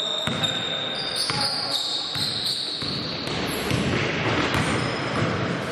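Basketball game in a gym hall: a ball bouncing on the court and sneakers squeaking in short high squeaks, with players' voices.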